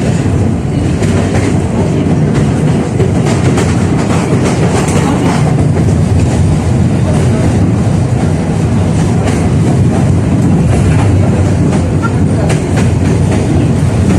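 71-605A (KTM-5A) tram car running between stops, heard from inside. Its wheels rumble steadily on the rails, with irregular clacks over rail joints.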